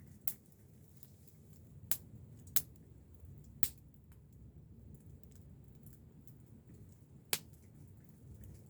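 Wood campfire crackling: five sharp, separate pops spaced irregularly over a low steady rumble.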